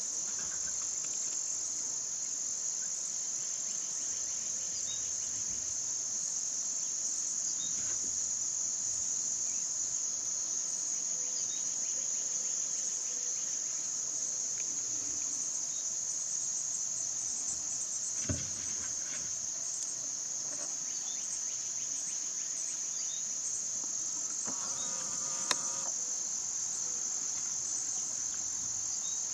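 Steady high-pitched chorus of insects trilling without a break, with a few faint short chirps and two sharp clicks over it.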